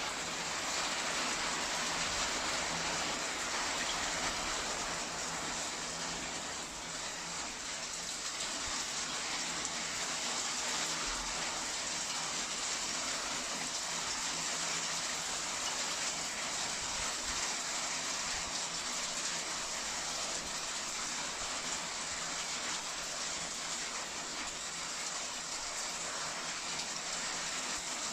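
Rain falling steadily, an even hiss that holds level throughout, with no thunder clap standing out.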